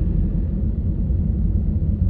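Steady low rumble of a Honda HR-V driving: engine and tyre noise on the road.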